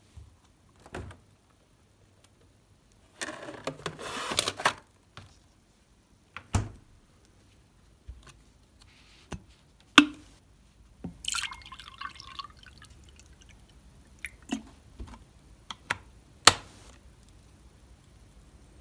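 Household water sounds in a small room: dripping and a short pour, among scattered clicks and knocks of things being handled, with one sharp knock about ten seconds in.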